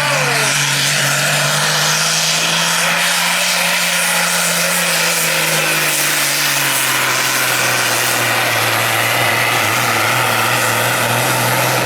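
Pulling truck or tractor engine at full power, dragging the weight sled down the track; the steady note sags slightly about two-thirds of the way through as the sled bogs it down.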